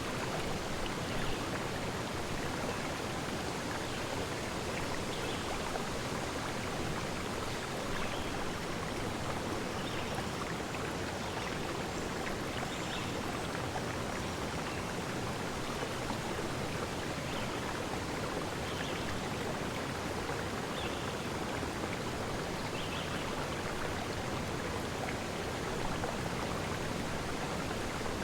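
Steady, even rush of running water, with faint brief high notes scattered through it every second or two.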